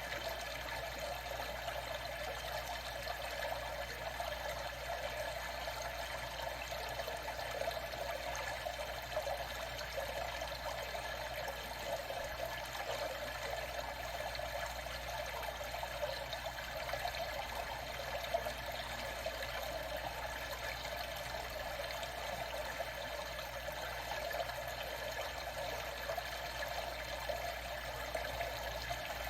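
Water trickling and washing steadily, an even sound with no separate splashes or paddle strokes.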